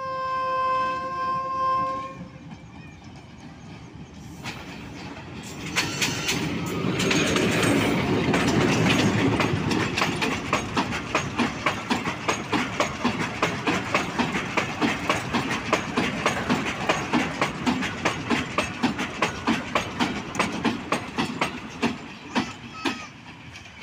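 Hitachi HBU-20 diesel-electric locomotive sounding its horn for about two seconds, then a long goods train of hopper wagons passing close by, its wheels clicking over the rail joints in a steady rhythm of about three clicks a second.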